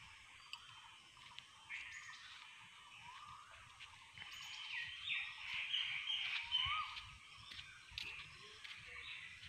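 Faint birdsong: several small birds chirping and calling, busiest from about four to seven seconds in, over faint background noise.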